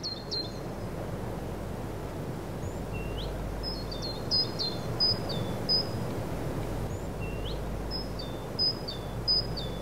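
A small songbird singing short, sharp high chirps in repeated phrases, each phrase opening with a rising note, over a steady low rumble of outdoor background noise.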